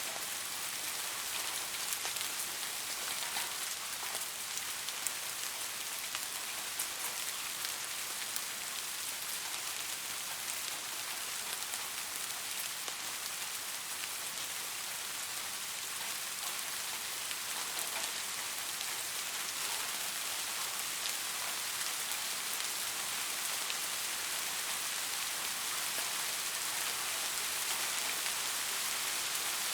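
Steady rain falling on a surface, an even hiss with many separate drop ticks scattered through it.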